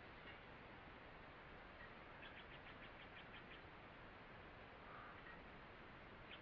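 Faint forest ambience: a bird gives a quick trill of about ten short high notes about two seconds in, with a few soft single chirps, over a steady low hiss.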